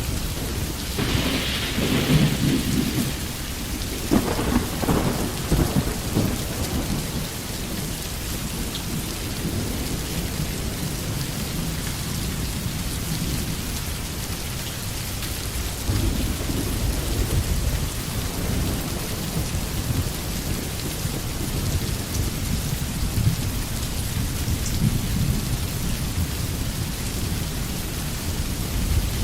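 Steady rain falling, with low rolls of thunder rumbling under it: a strong one in the first few seconds and softer ones later.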